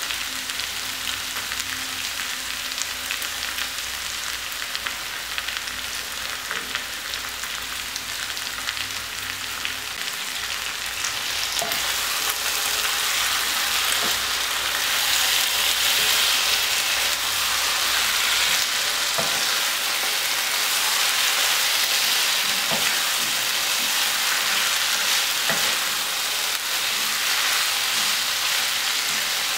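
Pieces of cooked beef sizzling in coconut oil in a nonstick kadai, with a wooden spatula stirring and scraping through them in short knocks; the sizzle grows louder about a third of the way in. This is the dry-frying stage of a Kerala beef fry on medium flame.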